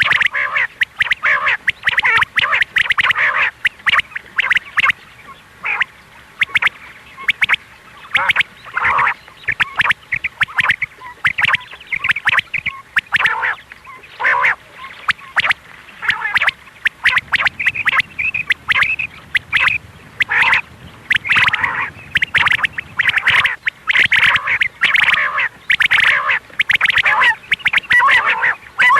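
Quail calling in a fast, unbroken run of short sharp notes, a call track played to lure quail in.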